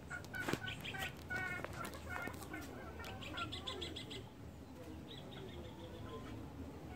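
Birds calling: a run of short, high chirping notes, then a quick trill of rapidly repeated notes about three seconds in and a fainter trill about five seconds in. A sharp click about half a second in.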